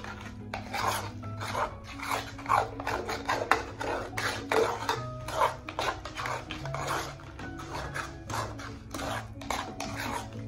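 A kitchen utensil scraping and knocking against a dish in quick, uneven strokes, over quiet background music.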